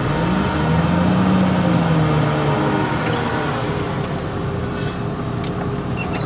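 Heavy equipment engine running under load, its pitch rising and falling slowly as it revs up and down, with a few sharp clanks near the end.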